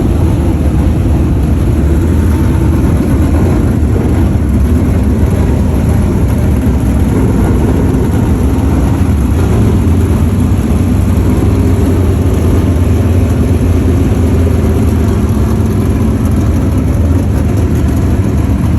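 Dirt-track modified race car engines running steadily and loud.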